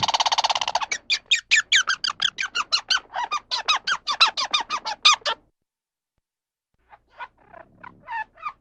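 An animal's calls: a long run of quick, falling, squeaky calls about five a second, which stop suddenly. After a pause of about a second and a half, another series of calls begins near the end.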